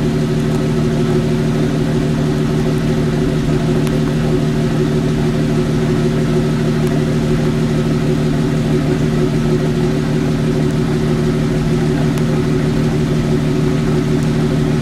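Jeep Wrangler YJ running at idle in third gear with its wheels off the ground and spinning freely, giving a steady drone from the engine and driveline that holds one pitch throughout. The noise is put down to a bad wheel bearing.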